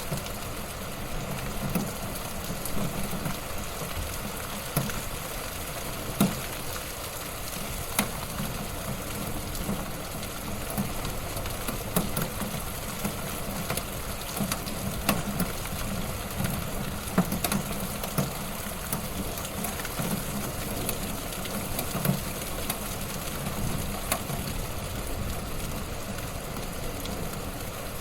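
Wood fire crackling in a fireplace: a steady hiss with sharp pops and snaps every second or two.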